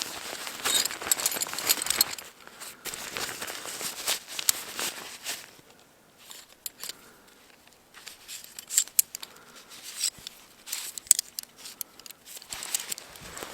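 Irregular crunching and crinkling rustles made of many sharp little clicks, with a quieter lull about six to eight seconds in.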